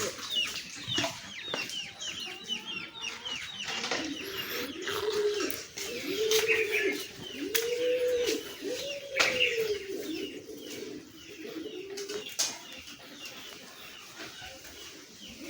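Farmyard fowl calling: a run of about five drawn-out calls, each rising and falling, in the middle, with quick high chirps from small birds in the first few seconds and scattered sharp clicks.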